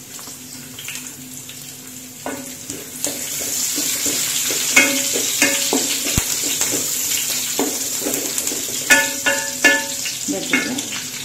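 Garlic, cumin seeds and green chillies sizzling in hot oil in a metal pan, the sizzle growing louder about three seconds in. A wooden spatula stirs and scrapes through them, knocking the pan several times so that it rings briefly.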